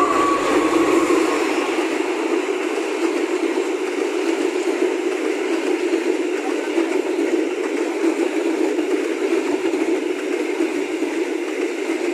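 Passenger train coaches rolling past close by on the track, a steady rumble of wheels on rail. The last of the locomotive's horn dies away in the first second.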